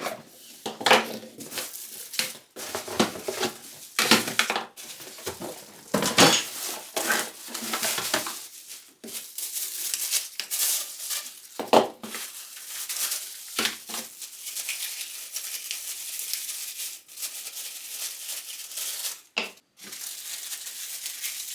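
A cardboard box being opened and its contents unpacked: plastic wrapping rustling and crinkling, with irregular handling knocks and scrapes of the parts.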